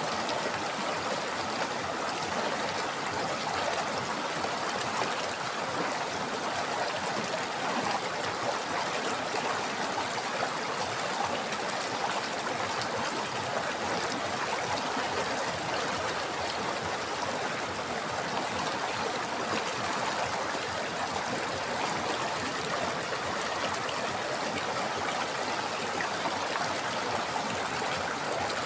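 River water flowing over stones: a steady, even rush with no change.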